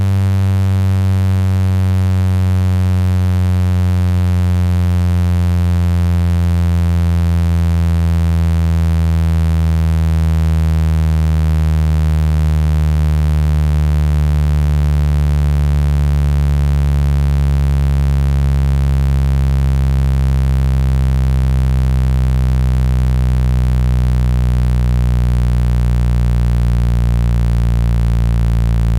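Electronic speaker-cleaning tone: a loud, low, buzzy tone with many overtones, its pitch sliding slowly downward. It is played to shake trapped water and dust out of a phone speaker.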